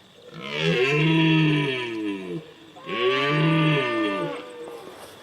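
An animal giving two long, moo-like calls about a second apart, each lasting about two seconds, its pitch rising and then falling.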